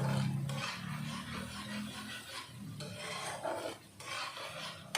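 Spatula scraping and stirring spice paste as it is sautéed in a pan, a rasping stroke about twice a second.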